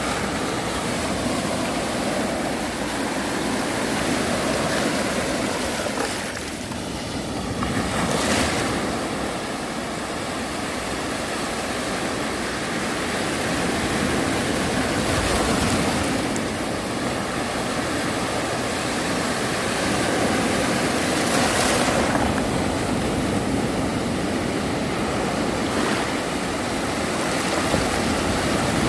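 Sea waves breaking and washing on a beach, a steady rush of surf that swells as each wave comes in.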